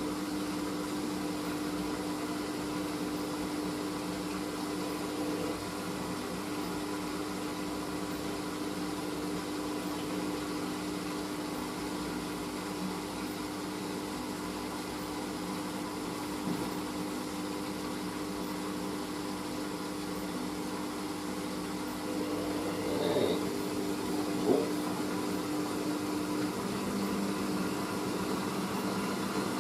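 Hoover SIX AAA160 washing machine spinning on its final spin, which goes to 800 rpm: a steady motor whine and drum hum. About three-quarters of the way through the whine wavers briefly and there is a single sharp knock.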